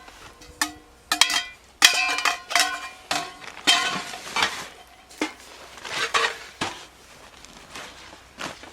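Metal camp cookware and gear being handled: a series of irregular clinks and clanks, several of them ringing briefly, thickest between about one and three seconds in.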